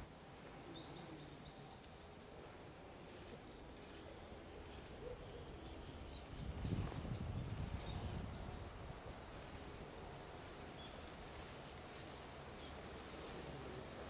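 Faint outdoor ambience with thin, high-pitched calls from distant small birds and a short, fast high trill about eleven seconds in. A soft low rumble swells briefly around the middle.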